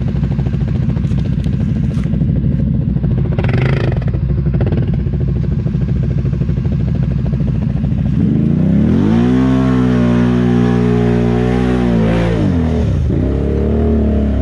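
ATV engine running at low revs, then revving hard about eight seconds in and holding high for several seconds before dropping back, straining through thick mud. The rider then feels the CVT drive belt needs a rest.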